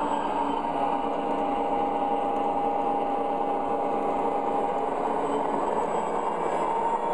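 MTH O-scale model diesel locomotives running in a lashup with a train of tank cars. The onboard sound system plays a steady diesel engine sound, mixed with wheels rolling on the track. Its held tones shift slightly about a second in and again near the end.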